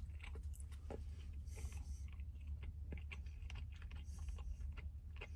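A person chewing a mouthful of cheeseburger with the mouth closed: soft, irregular wet clicks and smacks. A low steady hum runs underneath.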